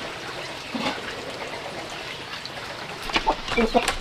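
Chickens clucking, a few short calls about a second in and again near the end, over a steady background hiss.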